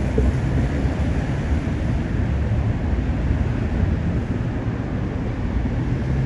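Steady low background rumble that holds at an even level, with no distinct events.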